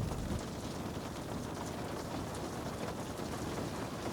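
Steady rain falling outside, an even patter with faint scattered drop ticks. A low rumble dies away in the first half second.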